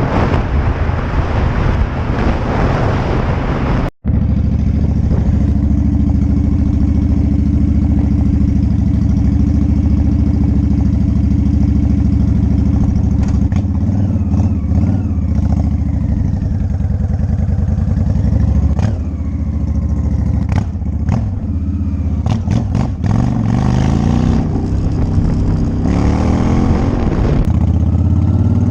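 A few seconds of music, then a sudden cut to a motorcycle engine heard from a helmet camera while riding. The engine runs steadily, and its pitch rises and falls several times as the rider rolls on and off the throttle and shifts gears.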